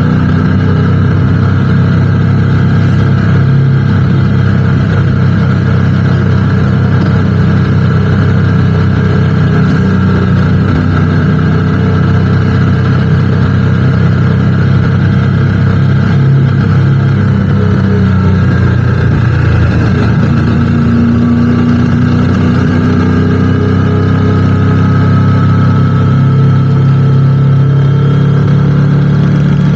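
Motorcycle engine running steadily under way, its pitch shifting a little as the throttle changes.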